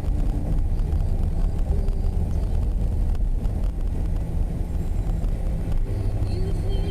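Steady low rumble of a car driving, engine and tyre noise heard from inside the moving car.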